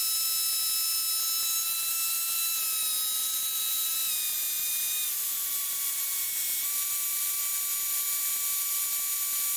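Steady hiss with a thin high-pitched whine in the cockpit audio feed between radio calls, its pitch shifting slightly a few times midway.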